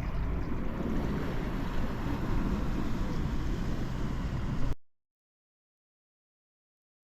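Narrowboat's diesel engine running steadily, with wind buffeting the microphone; the sound cuts off abruptly to dead silence about two-thirds of the way through.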